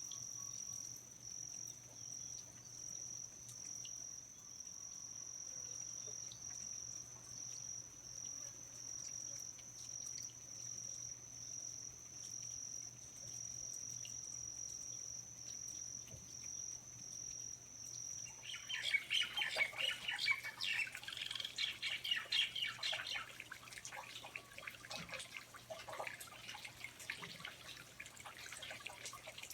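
A steady, high-pitched insect trill. About two-thirds of the way through it cuts off abruptly and gives way to a louder, busy mix of bird chirps and sharp dripping clicks of water in the rainforest.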